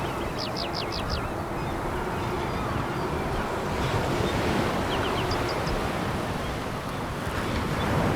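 Sea waves washing over a pebble beach: a steady rushing surf that swells again near the end. About half a second in there is a quick run of five short, high chirps, and a few more follow later.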